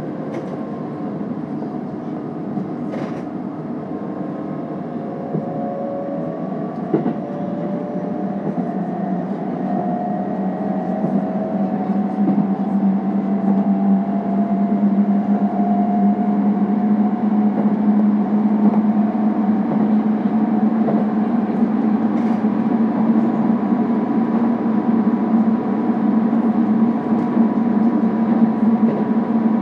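Keikyu rapid limited express train running, heard from inside the passenger car. Motor whine rises in pitch through the first half as the train picks up speed, then settles into a steady, louder running drone.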